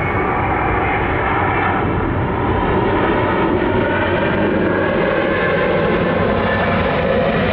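Large jet airliner's engines, a loud steady rush of jet noise that swells a little about two and a half seconds in.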